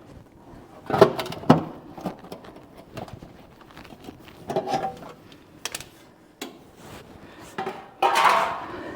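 Sheet-metal patch panel being handled and fitted into a car's rear quarter: irregular metallic knocks and clanks, the two loudest about a second in, with a short scraping rustle near the end.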